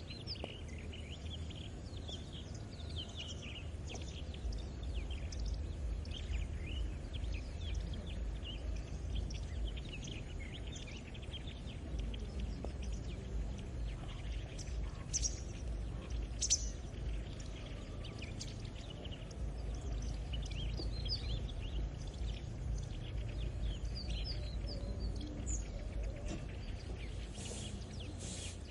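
Many small birds chirping and twittering throughout, over a low steady rumble.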